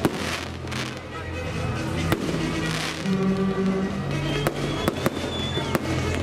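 Aerial fireworks going off: sharp bangs at irregular intervals and hissing, crackling stretches as shells burst into golden glitter, over loud music playing along with the display. A thin high whistle sounds for about a second and a half near the end.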